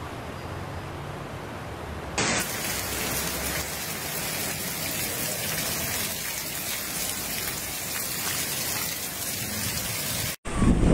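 Steady hiss of heavy rain falling, growing brighter and louder after about two seconds. Near the end it cuts out briefly and a louder low rumble starts.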